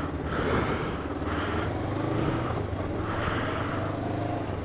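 1998 Kawasaki GPZ500's parallel-twin engine running steadily while riding at town speed, pulling cleanly without hesitating or chugging.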